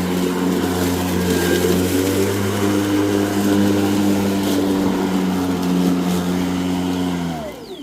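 Ryobi 40V cordless 20-inch push mower running with a steady electric-motor and blade hum, then winding down in pitch to a stop near the end.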